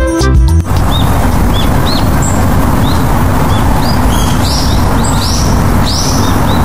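Birds chirping in short, high calls over a steady, loud rushing noise, the calls coming more often from about four seconds in. A snatch of music cuts off about half a second in.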